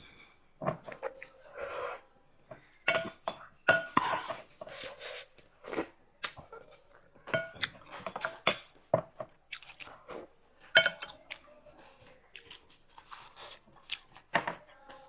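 Close-miked eating sounds from a meal of thukpa noodle soup and veg momos: chewing, with irregular wet smacks and mouth clicks, some much louder than others.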